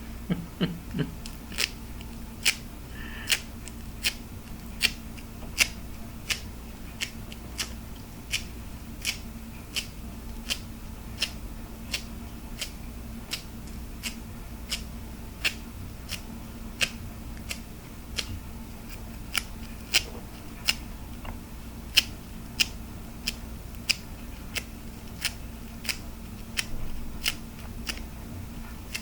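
Sharp clicks on hard plastic in a steady, unhurried rhythm, about three every two seconds, with a few quicker clicks near the start.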